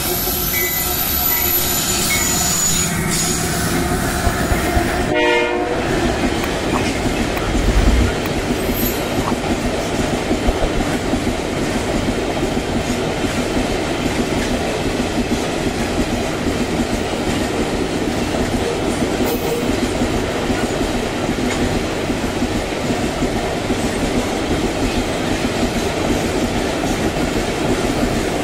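Freight train passing. A locomotive horn sounds over the first few seconds, then the wagons' wheels keep up a steady rumble and clatter on the rails.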